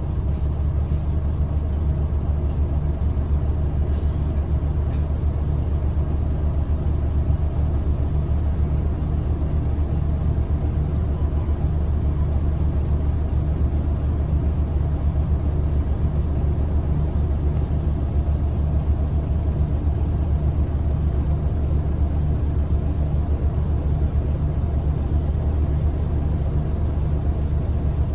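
Scania L94UB single-deck bus's five-cylinder diesel engine running steadily, a continuous low drone with no changes in pitch.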